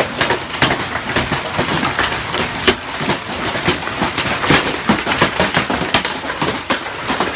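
Hail pelting down hard: a dense, irregular clatter of sharp cracks and knocks.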